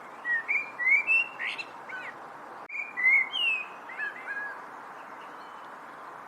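A songbird singing two short phrases of quick chirps and gliding whistled notes, with a short pause between them, over a faint steady hiss.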